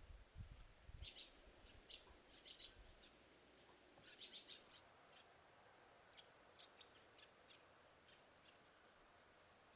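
Faint bird chirps in short clusters over near-quiet background, with a few low thuds in the first second.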